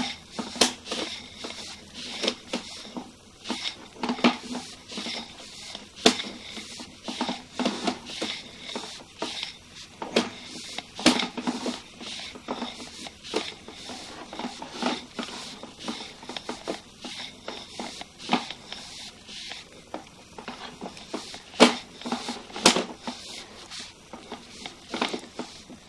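Sewer inspection camera's push cable being pulled back by hand through the line, with irregular clicks and knocks.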